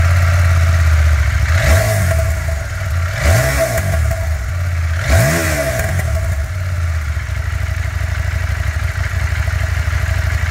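2022 CFMOTO 800MT's 799cc liquid-cooled twin-cylinder engine idling, blipped three times in quick succession within the first few seconds, each rev rising and falling back, then settling into a steady idle.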